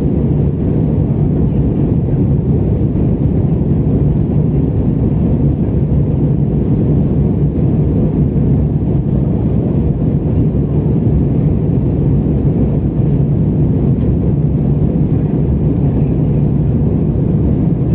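Airbus A320 cabin noise in flight: a steady, unchanging low rumble of engines and airflow, heard from inside the passenger cabin.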